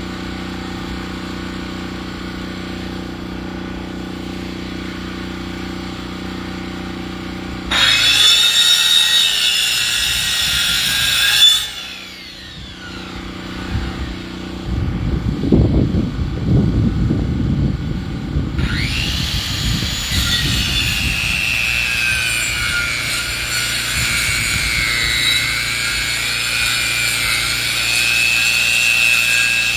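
A power saw milling a log into lumber. The motor runs steadily, then the blade bites into the wood about eight seconds in, with a high whine that drops off a few seconds later. A low rumbling follows, and from about two-thirds of the way through the saw cuts again with a wavering high whine.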